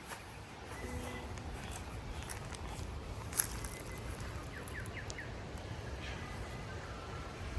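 Outdoor wind rumble on the microphone, with a single sharp click about halfway through and a few faint short chirps soon after.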